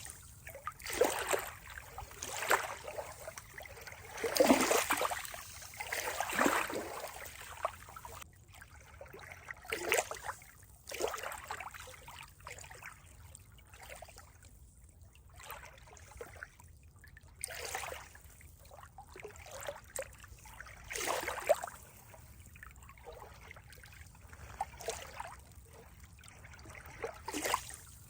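Water trickling and splashing in irregular surges every few seconds, the loudest about four to five seconds in.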